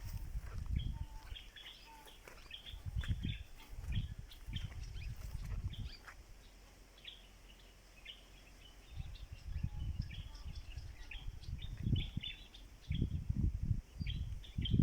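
Small birds chirping, many short high chirps scattered throughout, over repeated bursts of low rumbling noise.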